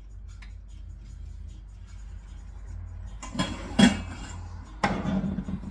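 Cookware and utensils clattering in a kitchen: a few sharp knocks and clinks in the second half, one much louder than the rest, over a steady low hum.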